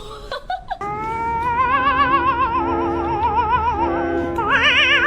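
Operatic singing over a sparse musical accompaniment: after a few brief clicks in the first second, one long note is held with wide, even vibrato, then jumps to a higher note about four and a half seconds in.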